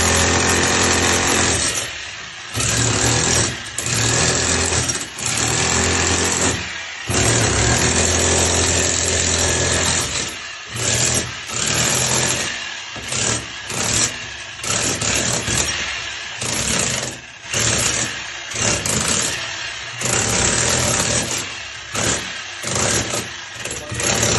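Electric power tool with a motor hum, run in long bursts of two to three seconds for the first ten seconds, then stopped and started again and again in short bursts of about a second.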